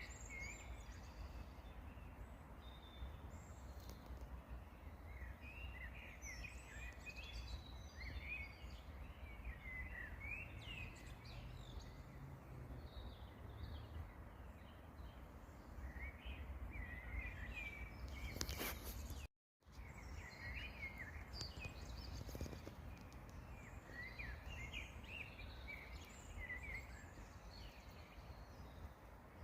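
Songbirds singing, many short chirping phrases over a steady low rumble. A brief rushing noise comes about two-thirds of the way through, followed by a split-second dropout to silence.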